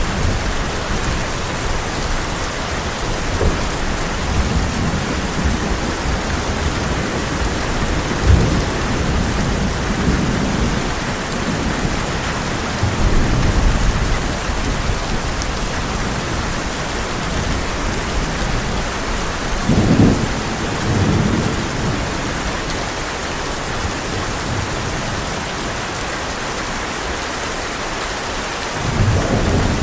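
Heavy rain drumming steadily on a tin roof, with low thunder rumbles swelling and fading several times, the strongest about eight, thirteen and twenty seconds in and again near the end.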